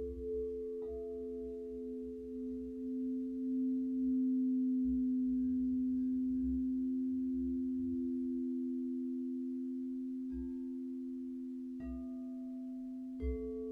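Singing bowls ringing: several long, steady, overlapping tones that swell slowly, with a few soft strikes adding short higher tones about a second in and again near the end.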